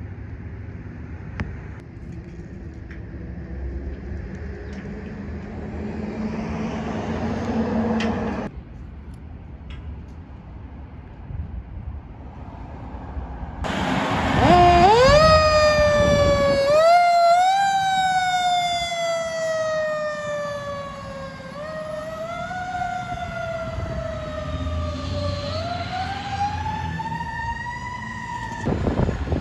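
Fire truck siren sounding from about halfway through, its pitch winding up and then sliding slowly down several times in an irregular rise-and-fall. Before it, heavy vehicle engine noise swells and cuts off.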